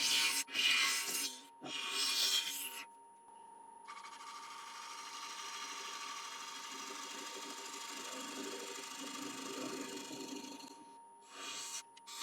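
Wood lathe running with a bowl gouge cutting a spinning walnut bowl blank while truing it up: three short cuts in the first few seconds, then one long steady cut of about seven seconds, and another short cut near the end. The lathe's motor hum runs underneath.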